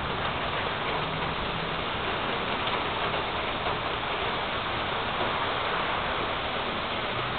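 Rain falling in a thunderstorm: a steady, even hiss.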